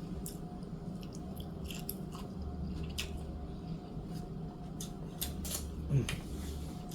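Close-up chewing of crispy fried food, a rapid scatter of crunchy clicks and mouth smacks, over a steady low background hum.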